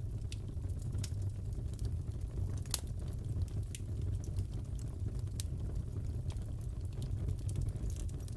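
Wood fire crackling in a fireplace: scattered sharp pops and snaps over a steady low rumble of burning, with one louder pop a little under three seconds in.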